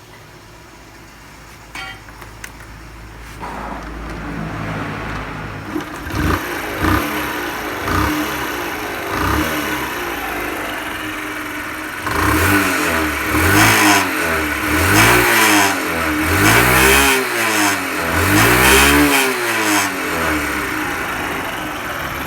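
A Honda Super Cub 90 DX's single-cylinder four-stroke engine starts up after a couple of clicks about two seconds in, catching around four seconds in, and settles to idle. It is then revved in a series of throttle blips, each rising and falling in pitch, with bigger and louder blips from about twelve seconds on, before dropping back to a steady idle near the end.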